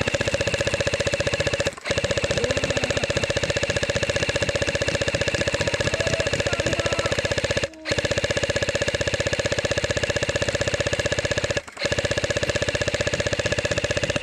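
Airsoft electric gun firing long full-auto bursts: a rapid, even rattle of shots over a steady motor-and-gearbox whine, broken by three brief pauses.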